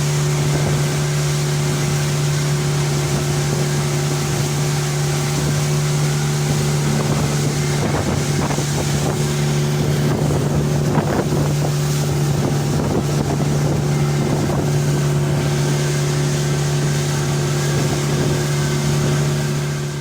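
Speedboat engine running steadily at speed, a constant low drone, with water rushing past the hull and wind buffeting the microphone.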